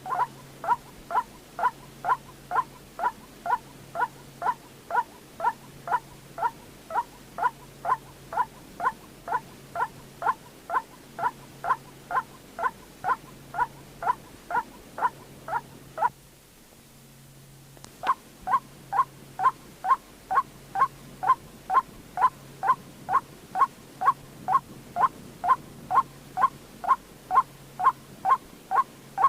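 White-breasted waterhen calling, a short note near 1 kHz repeated evenly about twice a second, with a pause of about two seconds a little past halfway. It is a call track played to lure waterhens for trapping.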